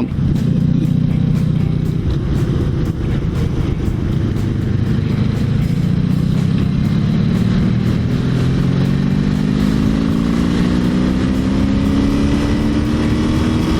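Honda V65 Magna's V4 engine through a Mac aftermarket exhaust, running steadily for a few seconds, then climbing slowly and steadily in pitch as the bike accelerates.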